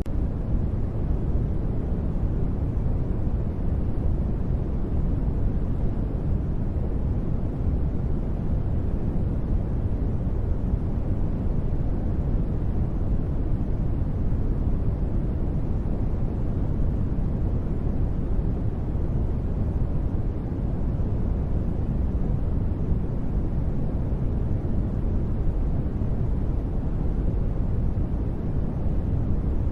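Continuous generated sleep noise: a steady, deep rushing sound, heavy in the low end with little hiss, even in level and without any sudden sounds.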